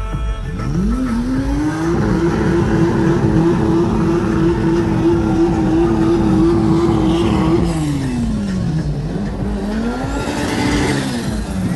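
Race car engine revving up and held at steady high revs for about five seconds, then dropping, rising once more and dropping again near the end.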